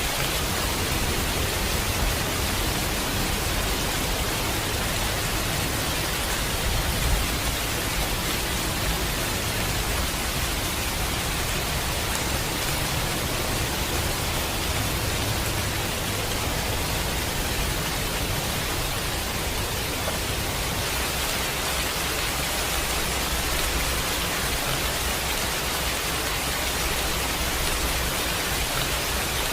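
Steady heavy rain, an even hiss with a low rumble beneath it and a single brief louder moment about seven seconds in.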